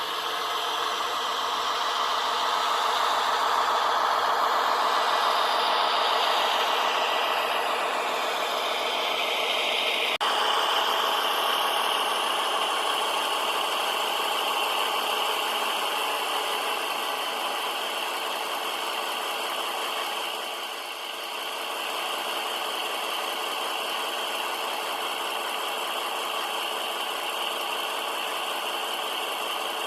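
H0-scale model train running on the layout: a steady motor hum with a rolling rattle from the wheels on the track. The tone changes abruptly about ten seconds in.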